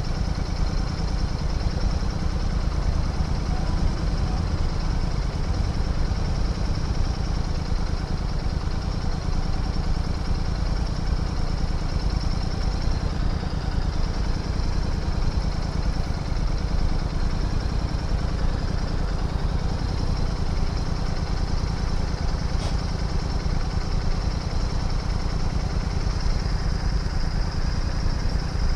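Royal Enfield Interceptor 650's parallel-twin engine running steadily at low revs, an even low exhaust note with no revving. A faint tick sounds about two-thirds of the way through.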